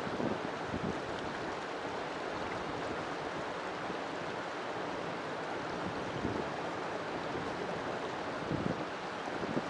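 River water flowing steadily, an even rushing with small gurgles and swells in the low end.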